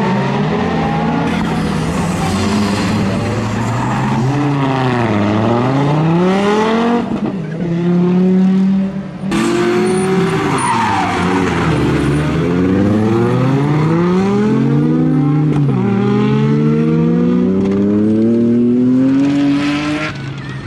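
Audi Quattro S1 rally car at full throttle, its engine revs climbing through the gears in a series of rising pulls with quick drops at each shift. The revs fall away twice under braking and pick up again, with a brief lift off the throttle about nine seconds in.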